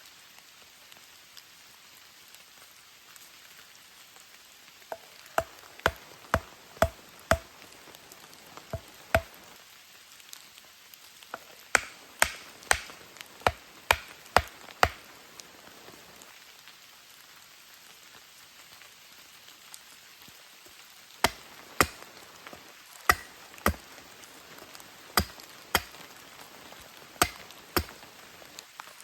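Repeated sharp chopping strikes, in three runs of several blows at about two a second with pauses between, over steady rain.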